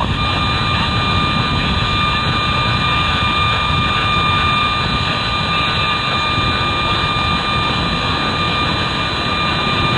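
Jet engine noise of a Boeing 777-300ER's GE90 engines on landing: a loud, steady roar with a steady high whine over it.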